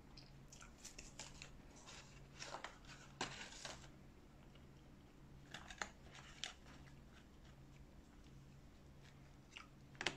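Faint close-miked chewing of fast food: scattered wet mouth clicks and soft crunches. About ten seconds in, a sharper clack and rustle as a chicken burger is lifted out of its cardboard box.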